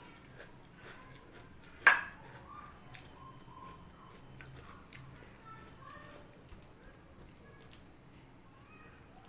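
Close-up eating sounds: one sharp crack about two seconds in, then soft wet smacking and small clicks of chewing and mixing rice and dal.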